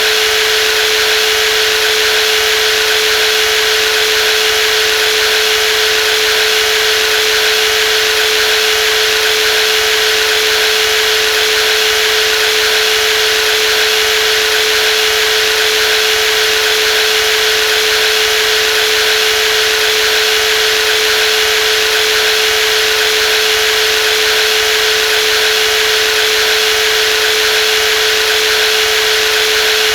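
Brushless jigsaw running at a constant speed: a steady, unchanging motor whine with one strong, even tone.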